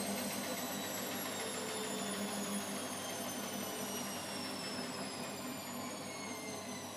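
Washing machine running with a motor whine, several tones that slowly fall in pitch, the drum winding down.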